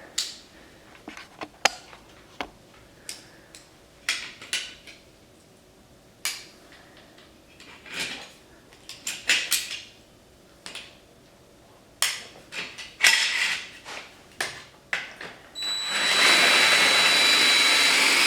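Scattered sharp metal knocks and clanks of tools on a steel bracket, then about 16 s in a cordless drill starts and runs steadily with a high whine, drilling out a rivet.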